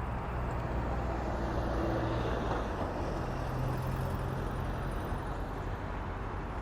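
Steady road traffic noise: a continuous rumble of passing vehicles with a low engine hum.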